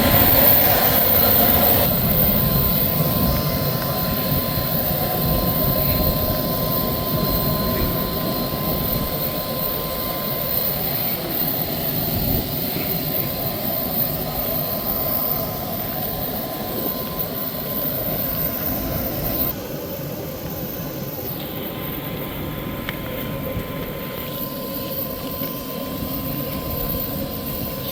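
A steady mechanical drone with a constant thin whistle-like tone running through it, slowly fading, and dropping a step about twenty seconds in.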